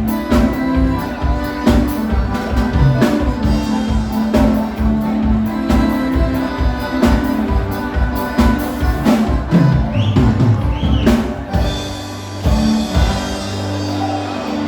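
Live gaúcho dance-band music: accordion and bass over a steady drum beat. The drums drop out about twelve seconds in, leaving held notes.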